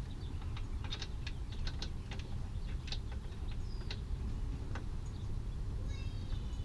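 Scattered light clicks and taps of bolts and radiator mounting parts being handled and fitted, over a steady low background rumble.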